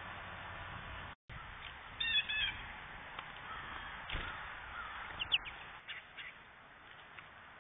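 A wild bird gives a quick run of about four short, harsh calls about two seconds in, with a short falling chirp later and a soft thump in between, over steady outdoor hiss. The sound cuts out for a moment about a second in where two trail-camera clips are joined.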